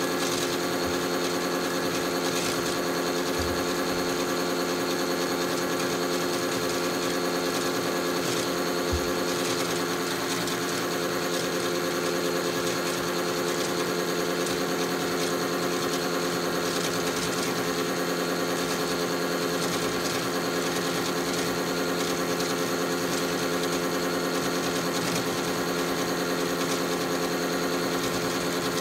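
Small electric motor of a battery-powered Tide Juniors Home toy washing machine spinning its drum on the spin cycle, a steady hum that holds one speed throughout.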